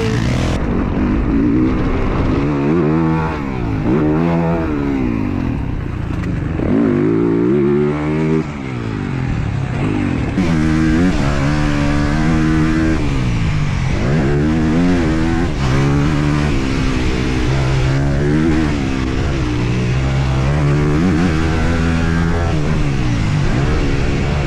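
Honda CRF250R single-cylinder four-stroke motocross engine revving hard and backing off again and again as the bike is ridden, its pitch rising and falling every second or two.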